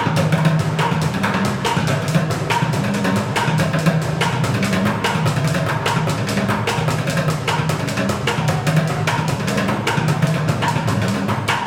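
Plastic buckets drummed with sticks in a fast, dense rhythm: deep hollow bucket tones under a rapid run of sharp stick clicks.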